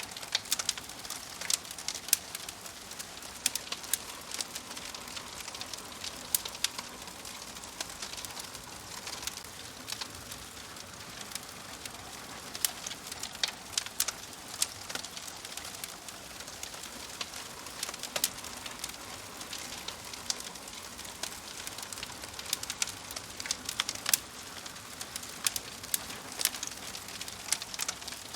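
Wood fire crackling in a wood-burning stove: a steady soft hiss of flames with frequent, irregular sharp pops and snaps.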